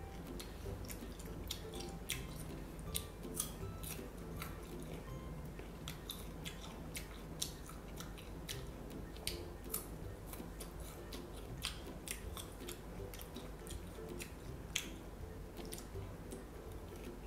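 Close-up chewing and mouth noises of someone eating fruit slices, with many sharp, irregular wet clicks and small crunches. Faint background music plays underneath.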